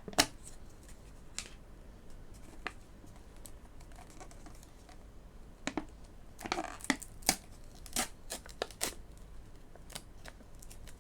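Snack packaging being handled and opened: scattered crinkles and crackles, with a short burst of tearing and rustling about two-thirds of the way through.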